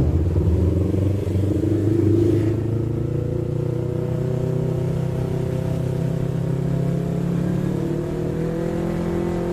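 Yamaha MT-25's 250 cc parallel-twin engine running under way at moderate revs, its pitch rising a little over the first couple of seconds and then holding steady.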